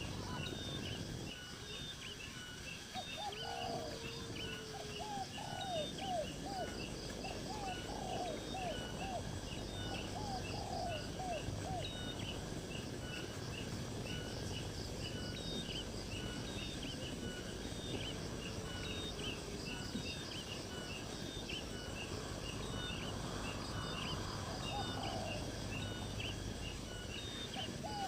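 Birds calling: runs of quick rising chirps a few seconds in and again near the end, over constant fast, high-pitched chirping and a low steady hum.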